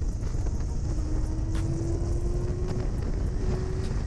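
Wind rush and low rumble on the rider's microphone while riding a Yamaha R6 sport bike at speed, with a faint engine tone slowly rising in pitch.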